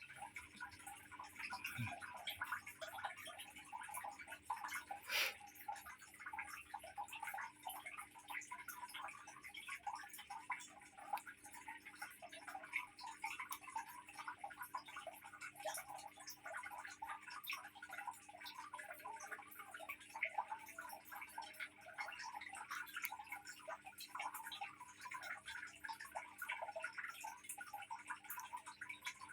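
Water trickling into a fish aquarium, a faint, steady run of many small irregular drips and ticks, with one sharper click about five seconds in.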